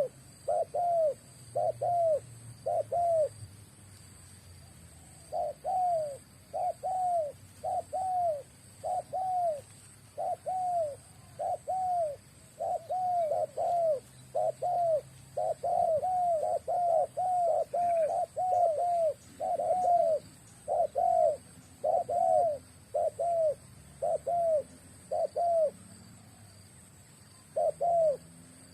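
An eight-month-old spotted dove cooing over and over in quick repeated phrases, with a couple of short pauses between runs.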